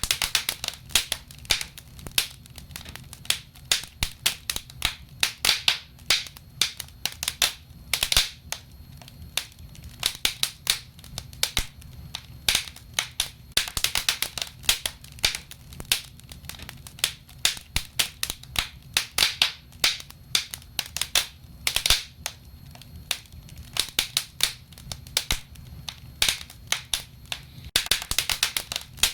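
Wood fire crackling and popping in a fireplace: irregular sharp snaps, some in quick clusters, over a low steady rumble of the burning fire.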